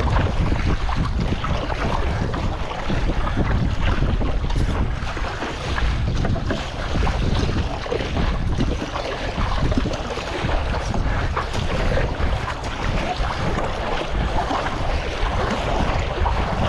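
Strong wind buffeting the microphone over choppy sea water, a steady, dense rush with heavy low rumble.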